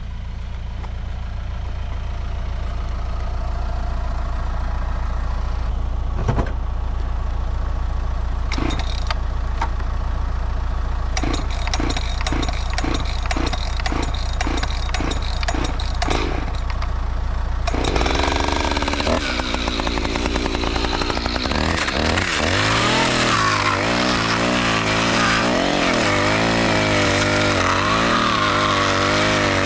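Diesel engine of a compact Yanmar machine running steadily at low speed, with a run of regular knocks about two a second in the middle. A little past halfway the engine speed rises and then wavers up and down.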